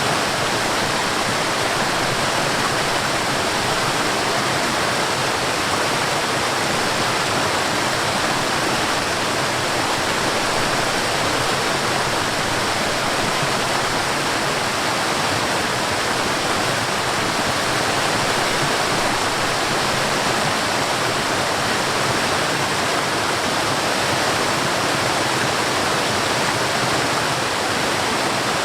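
Rushing water of a mountain stream and waterfall: a steady, even wash of sound with no breaks or changes.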